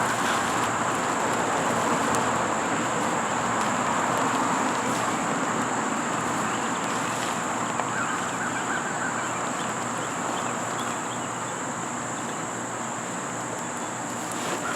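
Outdoor ambience: a steady high-pitched insect drone over a constant even background hiss.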